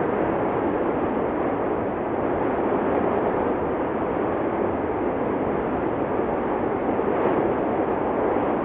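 Cumbre Vieja fissure eruption's continuous roar from the erupting vent, a steady, even rushing noise that holds at one level without pauses.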